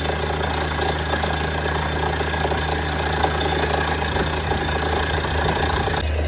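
Borewell drilling rig running steadily: a constant engine drone under a dense rattling clatter. The sound shifts abruptly just before the end.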